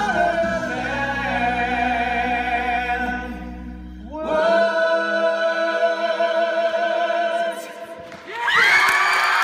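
A group of voices singing long held chords, a final chord swelling and fading out; about a second before the end, an audience bursts into cheering and whooping.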